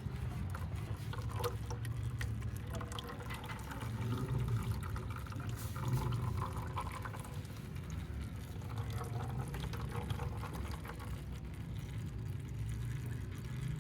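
Engine oil pouring in a steady stream, with a low steady hum underneath.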